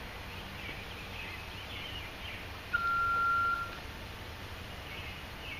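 Birds chirping over steady outdoor background noise, with a single steady electronic beep lasting about a second midway through.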